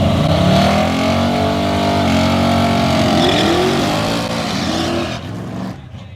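Drag-racing car at full throttle down the strip, its engine pitch climbing, breaking at a gear change about two seconds in and climbing again, then dropping away sharply a little after five seconds in.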